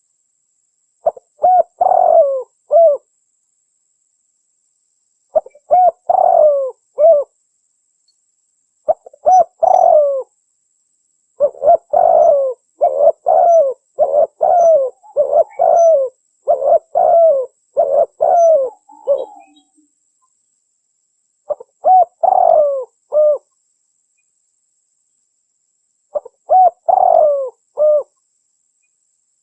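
Spotted dove (tekukur) cooing in repeated short phrases of falling coo notes, with clean gaps of silence between them and a longer unbroken run of calls in the middle. This is a lure recording of the call, played to draw wild spotted doves in.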